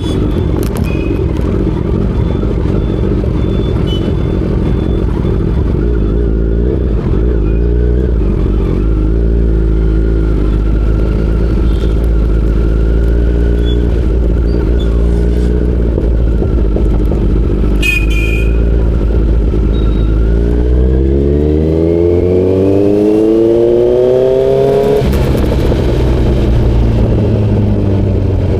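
Kawasaki Z900's inline-four engine running under way. Late on it revs up in one smooth rising climb for about five seconds, then the pitch drops suddenly at a gear change.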